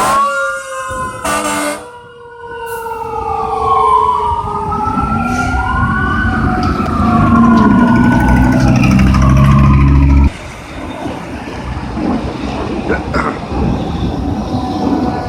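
Fire apparatus sirens wailing, several rising and falling tones overlapping. From about five seconds in, a loud low blare sounds under them and cuts off suddenly near the ten-second mark.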